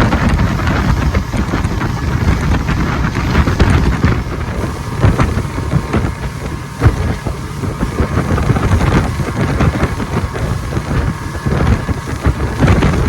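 Wind buffeting the microphone over the running noise of a moving vehicle.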